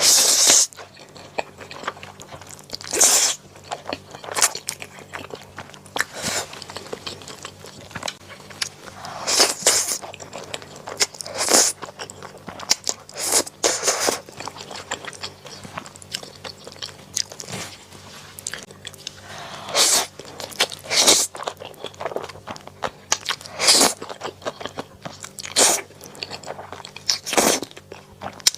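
Close-miked eating: a person biting and chewing, with a short noisy burst of crunching or mouth sound every one to three seconds over a faint low hum.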